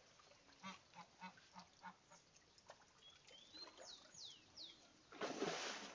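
A bird calling in a quick run of about six short, evenly spaced calls, followed by a few high, falling whistled chirps. Near the end, a loud rushing noise is the loudest sound.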